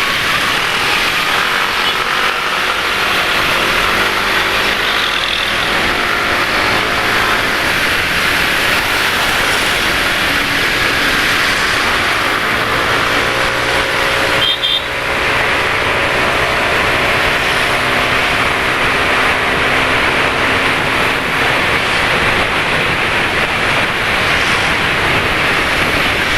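Heavy wind and road noise from riding a motor scooter in traffic, with a passing vehicle's engine hum rising and falling in pitch through the middle.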